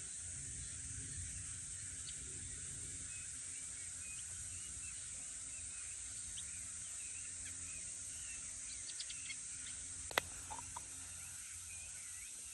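Field ambience: a steady high insect drone with short small-bird chirps scattered throughout, and one sharp click about ten seconds in.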